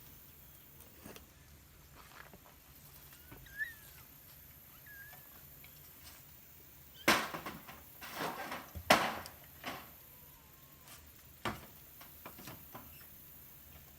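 Young kittens giving a few faint, high mews. About halfway through, a cluster of loud sharp knocks, and one more a little later.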